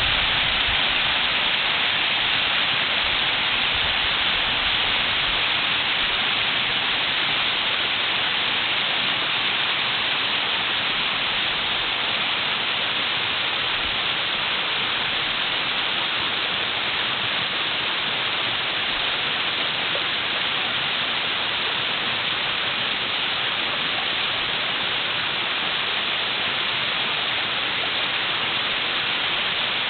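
A two-tiered waterfall making a steady, even rush of falling water.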